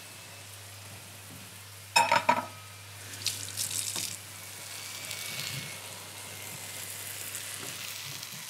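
Crab shells and vegetables sizzling steadily in a casserole on the hob. About two seconds in, a ceramic dish clatters down in the sink with a short ring, and a brief run of tap water follows about a second later.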